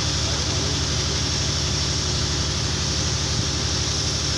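Steady low machine drone, like an engine running, with a constant hiss over it.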